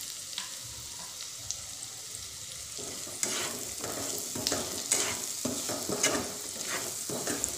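Spiny gourd pieces frying in oil with their spices, a steady sizzle. From about three seconds in, a spatula stirs them, scraping and clicking against the pan as the salt is mixed in.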